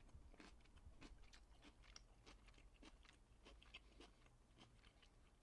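Faint chewing of food, with soft, irregular mouth clicks and small crunches.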